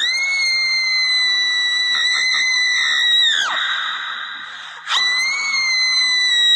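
Two long, very high-pitched screams held at a steady pitch: the first starts suddenly and falls away after about three and a half seconds, and the second starts about five seconds in and is still going at the end.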